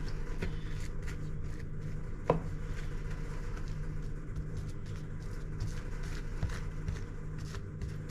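A scraper spreading crumbly topping of oats, flour and sugar over fruit in a baking dish: a run of soft, irregular scratching and crumbling ticks, with a sharper knock about two seconds in. A steady low hum sits underneath.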